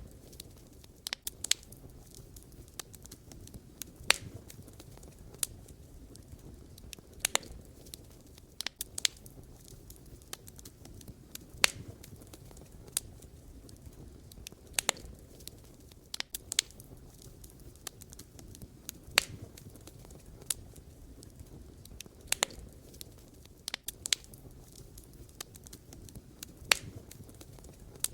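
Wood fire crackling: burning logs give irregular sharp pops and snaps every second or two over a low, steady rumble of flames.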